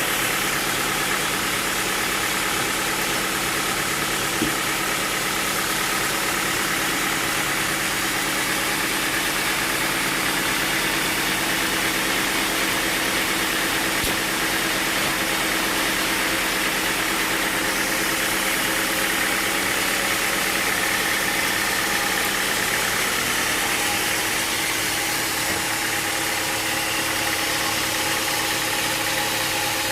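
An engine running steadily at an even speed, with one faint tap about four seconds in.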